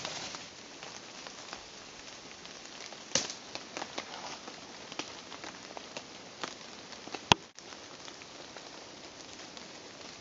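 Steady rain falling, with scattered drops pattering close by. A single sharp click stands out about seven seconds in.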